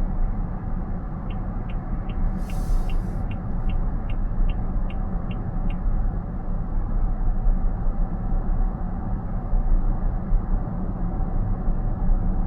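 Steady road and tyre rumble inside a car cabin at expressway speed. From about a second in to about six seconds in there is a run of about fourteen light, evenly spaced ticks, roughly three a second, with a brief hiss partway through.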